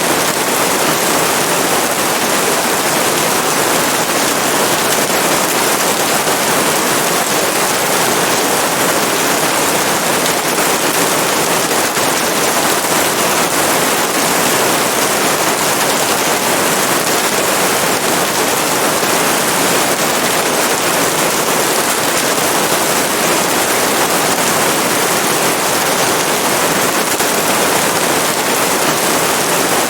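Steady rainfall: a dense, even hiss of rain with no single drops or changes standing out.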